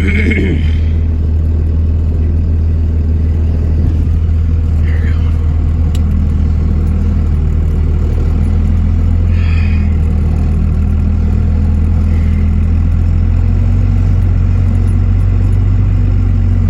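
Pickup truck engine running with a steady low drone, with a few brief, higher-pitched sounds over it.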